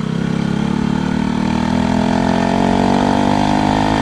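Motorcycle engine pulling under acceleration, its note rising slowly and steadily in pitch.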